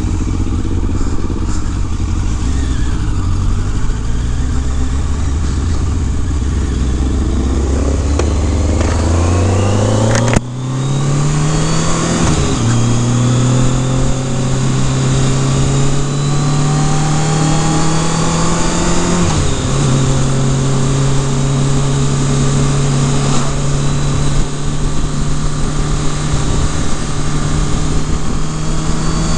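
Kawasaki Concours ZG1000's inline-four engine idling low, then pulling away about eight seconds in. It rises in pitch through three upshifts and settles into a steady cruise, with wind rushing over the microphone as speed builds.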